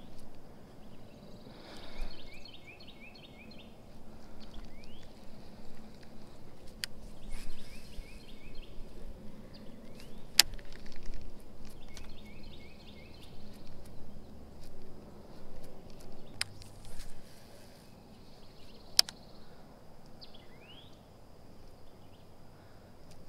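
Quiet outdoor ambience with a bird's phrase of quick repeated high notes sounding three times and a few brief rising chirps. A handful of sharp single clicks come while a lure is worked on a baitcasting rod and reel.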